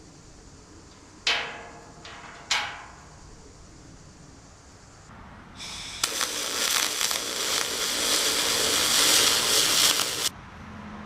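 Two sharp metal clanks with a short ring, a little over a second apart, then a loud, harsh hissing crackle lasting about four and a half seconds that cuts off suddenly.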